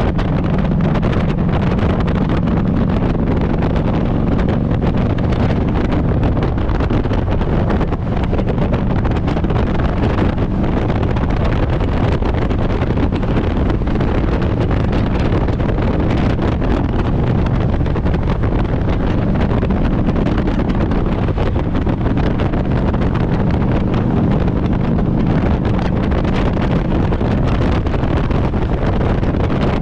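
Harley-Davidson Road Glide's V-twin engine running steadily while riding, with wind noise on the microphone. There are no gear changes or revving, just an even, continuous sound.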